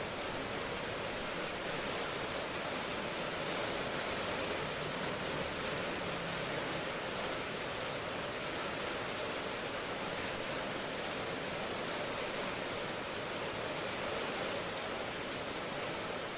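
Steady rain ambience: an even, continuous hiss of rainfall with no distinct drops or thunder.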